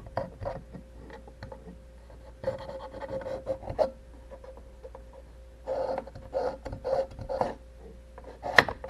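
Hand deburring tool scraping along a sharp, burred edge in two runs of short strokes, with a sharp click near the end.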